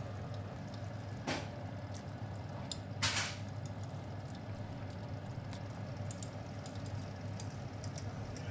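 Thick sweet Thai chili sauce poured from a bottle into a pot of chicken feet, with small drips and splats and one louder short splash about three seconds in, over a steady low hum.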